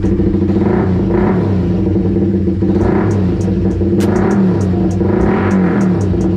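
Suzuki Raider 150 Fi single-cylinder four-stroke engine running loudly through an open CHA exhaust pipe, idling with repeated short throttle blips.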